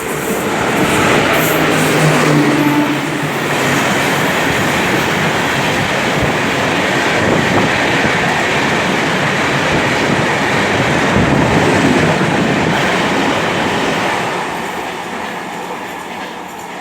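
A train running past close by on the rails, its noise building over the first couple of seconds, holding steady, then fading away over the last few seconds.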